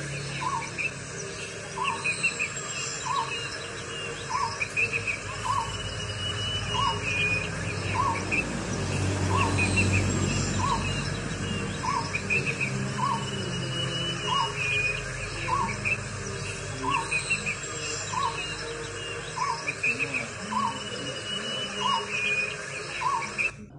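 Outdoor hillside ambience: a bird repeats one short call over and over, evenly, about three calls every two seconds. Under it runs a steady insect trill with other small chirps.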